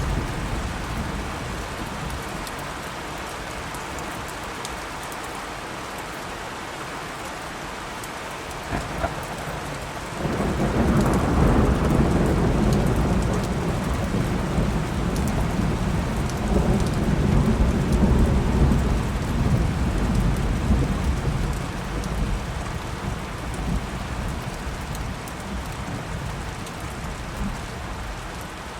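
Steady rain falling, with a sharp crack of thunder about nine seconds in followed by a long, loud rumble of thunder that builds and slowly dies away over the next ten seconds or so.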